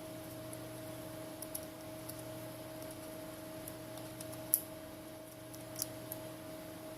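A few light, sharp clicks and taps of small phone parts and tools being handled during smartphone reassembly, the loudest about four and a half seconds in, over a steady electrical hum.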